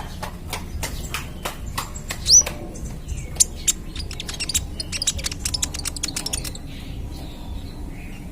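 Young kolibri ninja sunbird singing a rapid string of sharp, high chips and ticks, with a rising whistle a little over two seconds in and a dense, fast run of chips in the middle.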